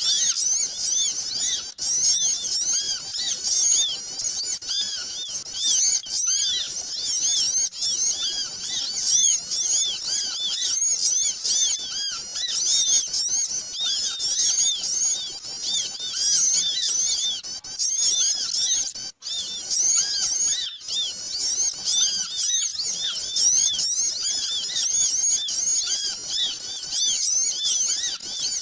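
A crowd of small birds chirping busily together: a dense, unbroken twittering of short, high, arching chirps, with a split-second break about two-thirds of the way through.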